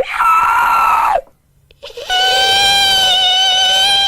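A man screaming in a high, wordless falsetto: a short cry about a second long, then after a brief pause a longer one held on a steady pitch for nearly three seconds, each dropping in pitch as it cuts off.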